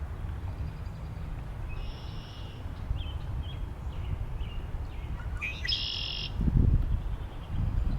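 Birds calling, with short high chirps and one louder buzzy call about six seconds in, over a low rumble of wind on the microphone that gusts harder near the end.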